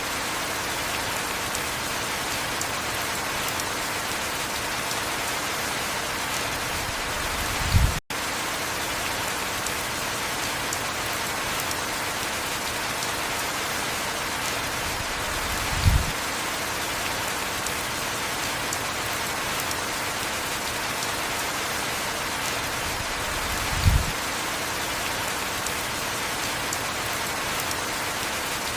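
Heavy rain falling steadily, an even hiss of rainfall. A short, low thump comes about every eight seconds, three times, and the sound cuts out for an instant just after the first one.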